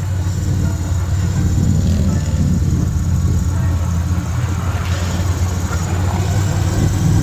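Motorcycle engine running at a steady, even pitch, with a low hum and no revving.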